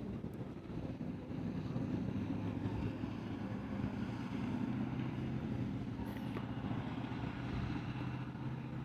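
Vehicle engine idling steadily, a low even hum with a faint wash of noise over it.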